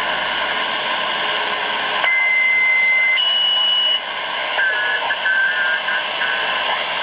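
Grundig Yachtboy 80 shortwave radio giving steady band noise and hiss, with whistle tones from received signals: one starts about two seconds in, jumps higher about a second later and stops about halfway, then a warbling, broken tone follows in the second half.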